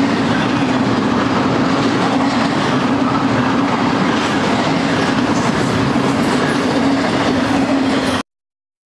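Double-stack intermodal freight cars rolling past, a steady loud rumble of steel wheels on rail with a constant low hum. The sound cuts off suddenly near the end.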